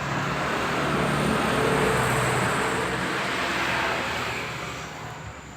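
A road vehicle passing close by: engine and tyre noise swelling to a peak about two seconds in, then fading away.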